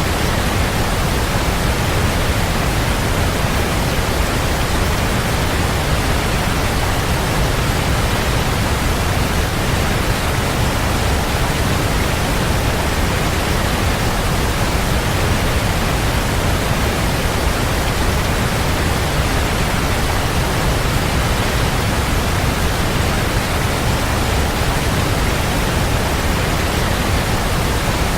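Waterfall pouring steadily: an even, unbroken rush of water, heaviest in the low end.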